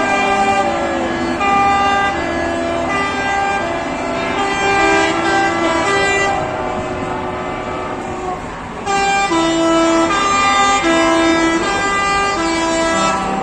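Truck air horns honking: a string of held notes at changing pitches, several horns overlapping, with a short break just before the horns pick up again.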